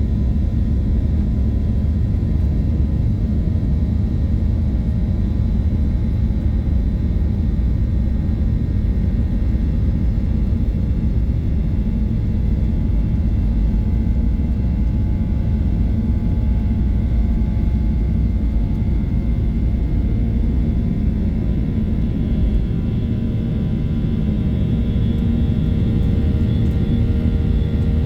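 Steady low rumble and hum of a Boeing 737-800's CFM56 jet engines heard from inside the cabin, with thin steady whine tones over it that grow a little stronger near the end.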